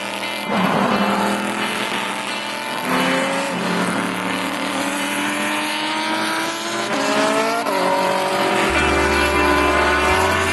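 IMSA sports-car race cars on track, their engines revving hard and passing, with the pitch stepping abruptly between gears. A steady bass line of music comes in near the end.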